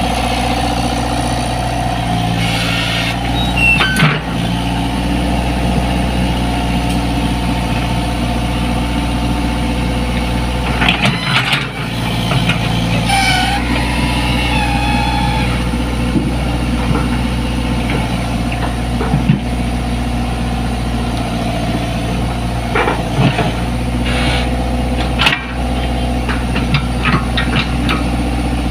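Komatsu PC75 excavator's diesel engine running steadily at idle, with a few short sharp knocks scattered through, most around a quarter, two fifths and near the end.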